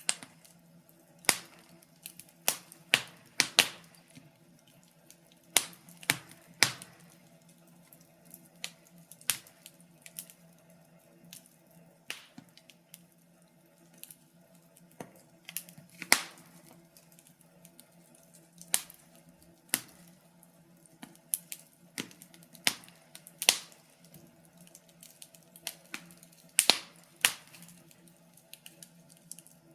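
Wood fire crackling: sharp, irregular pops and snaps, sometimes in quick clusters, over a faint steady low hum.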